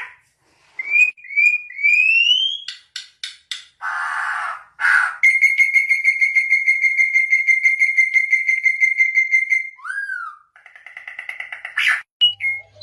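Songbird calls: a few short rising whistles, then a long rapid trill held on one pitch for about four seconds, a falling swoop and a buzzy trill near the end.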